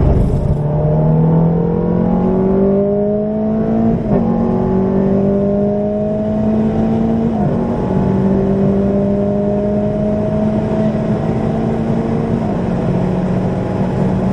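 Ferrari F430's V8 engine, heard from inside the cabin, accelerating hard down the track, its pitch climbing and then dipping briefly at three upshifts, about four, seven and a half and twelve and a half seconds in.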